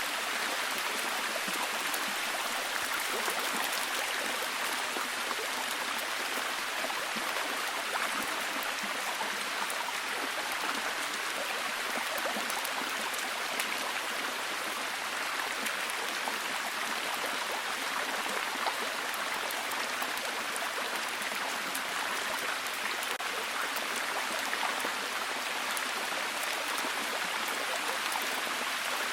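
Steady heavy rain, an even hiss of many falling drops with fine pattering throughout.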